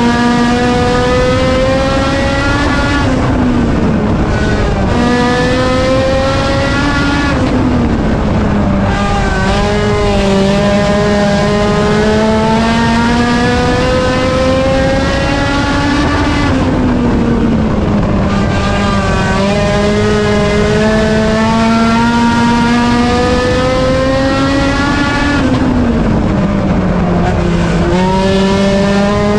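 Front-wheel-drive compact race car's engine at racing speed. Its pitch climbs slowly along each straight, then drops off sharply as the car lifts for a corner, four times over.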